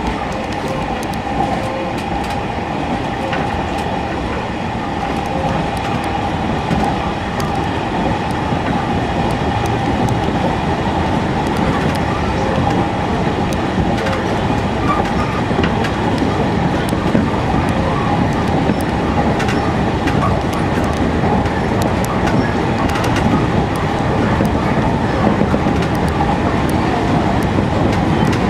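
Electric commuter train running along an elevated track, heard from inside the front cab: steady rolling and running noise with faint rail clicks, getting a little louder over the first several seconds.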